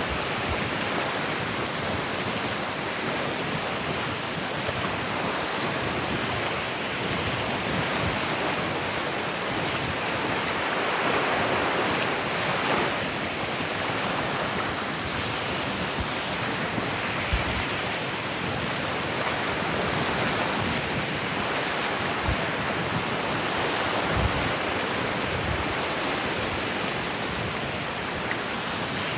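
Ocean surf washing onto a beach as a steady, even rush of noise, with a few soft low thumps.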